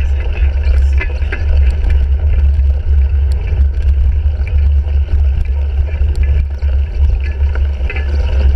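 Wind and riding noise buffeting the microphone of a bike-mounted GoPro Hero 3 on a cyclocross bike in motion: a steady low rumble, with scattered clicks and rattles from the bike over rough ground.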